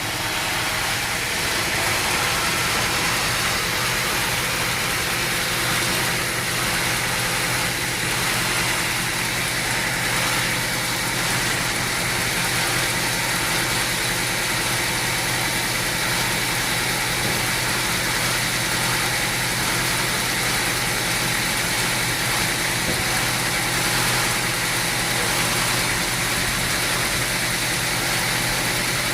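An engine running steadily at an even speed, with a constant hum and hiss and no change in pitch.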